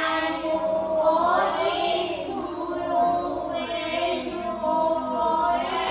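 Children singing, holding long notes of about a second each.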